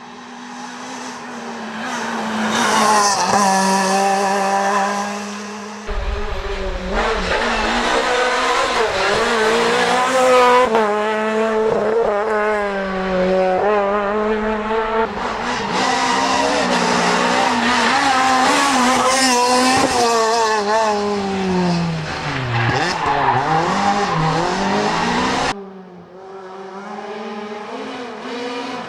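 Renault Clio R3 rally car's four-cylinder engine revving hard, its pitch climbing and dropping repeatedly through gear changes, with tyre squeal. The sound changes abruptly about six seconds in and again near the end, as one stretch of flat-out driving gives way to another.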